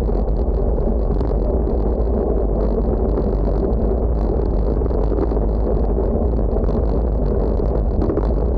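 Wind buffeting the microphone on a windy day: a steady, loud rumbling rush with no letup.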